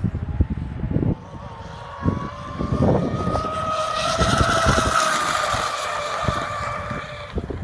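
Twin electric motors of a Pro Boat Zelos 36 Twin RC catamaran whining at speed on a fast pass. The pitch rises slightly, holds, then fades out near the end, with wind buffeting the microphone underneath.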